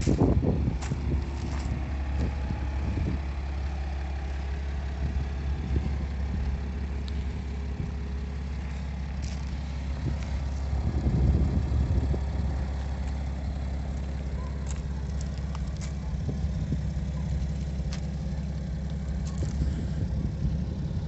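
A motor vehicle's engine idling steadily as a constant low hum, with brief louder low rumbles at the start and again about eleven seconds in.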